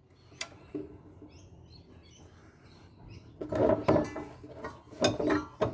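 Metal clinks and clatter from hand tools and parts while a solar inverter is taken apart, with a sharp click near the start and louder clattering in the second half. Faint bird chirps sound in between.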